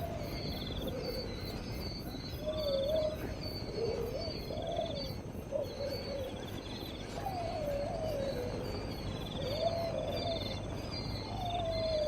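Repeated wavering, whistle-like animal calls, one every second or two, with short high chirps and trills between them.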